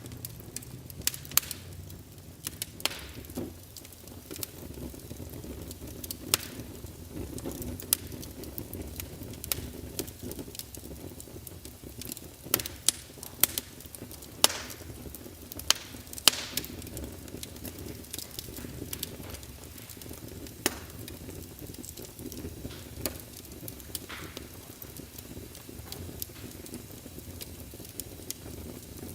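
Wood fire burning in a fireplace: logs crackling with irregular sharp pops over a steady low rumble of flame.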